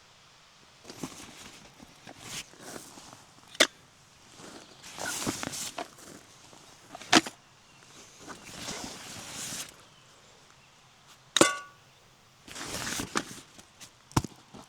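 Close-up rustling and scuffing of gear being handled, broken by four sharp knocks, one of them with a short metallic ring.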